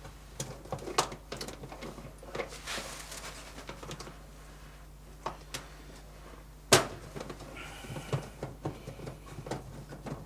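Light clicks and knocks of the dishwasher's plastic filter and tub parts being handled, with a brief hiss a few seconds in and one loud sharp click about two-thirds of the way through.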